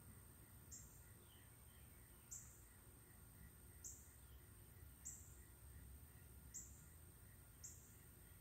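Birds chirping faintly: single short high chirps, six or seven of them about a second apart, over a faint low hum.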